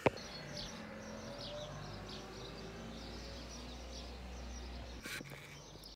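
Small birds chirping faintly over a low steady rumble that stops about five seconds in.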